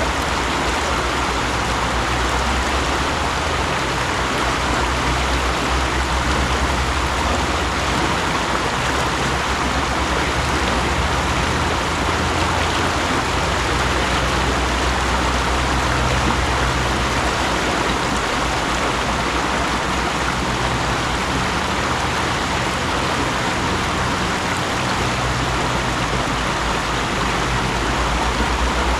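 Mountain stream running steadily: an even rush of water with a deep low rumble that swells and eases.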